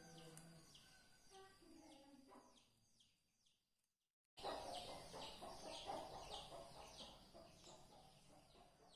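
Faint background of small birds chirping, short falling notes repeated a few times a second, with a low drawn-out call fading out at the very start. The sound drops out for a moment about four seconds in, then returns with faint background noise under the chirps.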